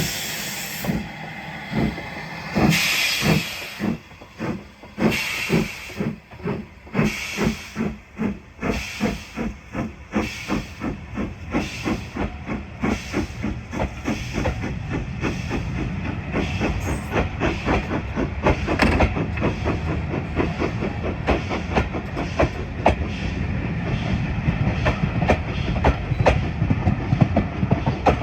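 Steam locomotive pulling away: loud bursts of hiss from the open cylinder drain cocks, then chuffing exhaust beats about one a second that steadily quicken until they run together as the train gathers speed, with the rumble of the train rising beneath them.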